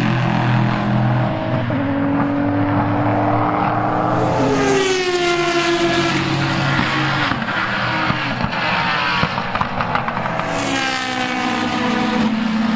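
Racing car engines at full speed on a circuit, loud and continuous, with two cars passing close by about five and eleven seconds in, each dropping in pitch as it goes past.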